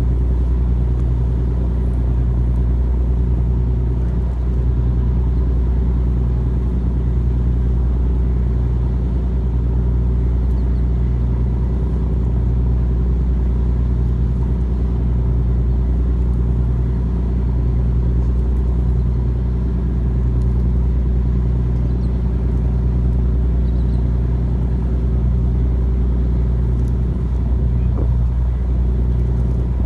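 Tugboat's diesel engine running at a steady speed: a low, even drone with a constant hum.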